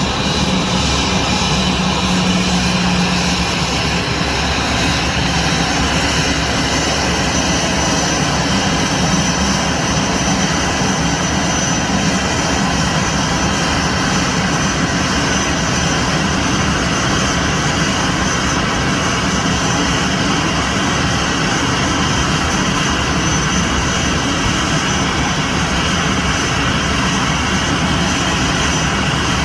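Airbus A321's jet engines running steadily at low power as the airliner taxis in to park: a loud, even rumble and hiss with steady high-pitched tones.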